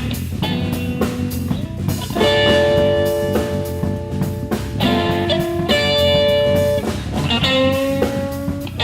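Live blues band playing: an electric guitar holds long lead notes over bass guitar and a drum kit.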